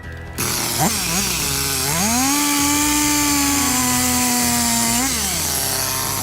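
Chainsaw blipped twice about a second in, then revved up to full speed and held there, cutting wood with a steady high hiss, before the engine drops back near the end.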